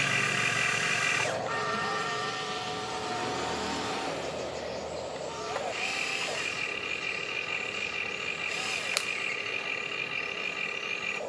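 Radio-controlled toy bulldozer running, its electric motors whining steadily with the pitch stepping up and down a few times as it drives, and a sharp click about nine seconds in.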